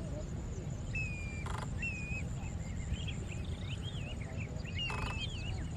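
A flock of water birds calling, short wavering calls one after another from about a second in, over a steady low rumble. Two brief clicks about a second and a half and five seconds in.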